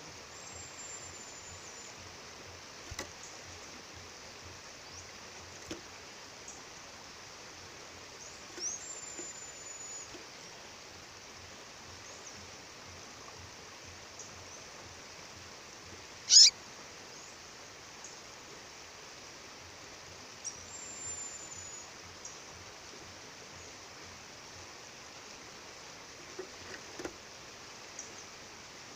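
A female bird calling with thin, very high whistled notes: three drawn-out, slightly falling whistles and scattered short chips, with one loud, sharp call sweeping downward about halfway through. A steady waterfall rushes underneath.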